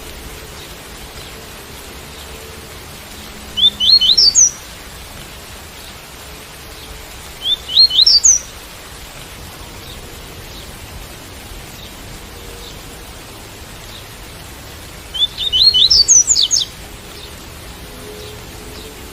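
A double-collared seedeater (coleiro) sings its 'tui-tui' song in three short phrases of quick rising notes, the last one the longest. A steady hiss of rain runs underneath.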